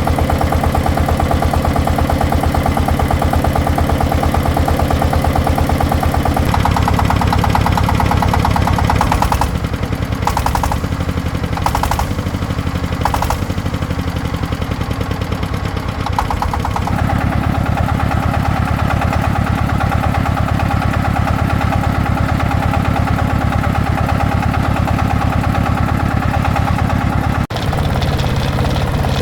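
An engine running steadily at idle. Its note shifts a few times, and there is an abrupt break near the end.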